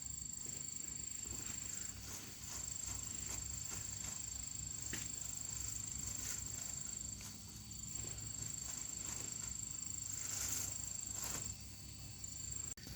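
Steady high-pitched insect drone, with scattered light clicks and rustles.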